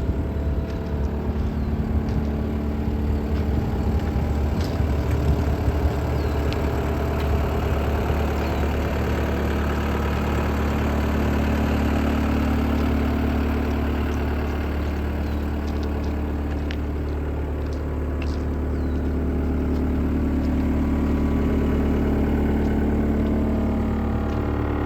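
Gehl V330 skid steer's diesel engine running steadily, with a few light clicks over it.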